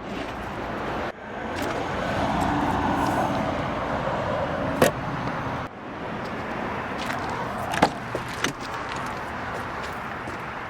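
Road traffic noise, with a vehicle passing a couple of seconds in. A few sharp clicks or knocks are heard, one near the middle and a couple close together later on.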